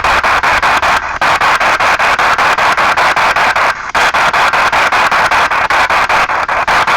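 P-SB7 spirit box sweeping through radio stations: a loud hiss of radio static chopped into short bits about seven times a second as it jumps from station to station, dipping briefly twice.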